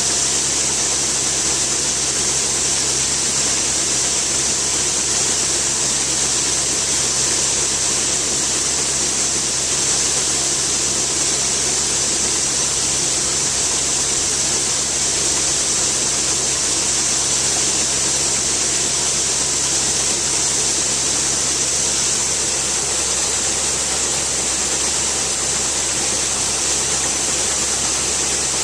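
Harvest-time farm machinery running steadily: a constant low engine drone under a loud, even hiss, with no change in speed or load.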